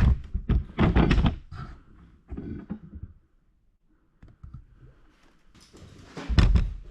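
Handling knocks and thumps as the camera is picked up and set in a new spot: a sharp knock at the start, a cluster of thumps about a second in, lighter knocks, a quiet stretch, then one heavy thump near the end.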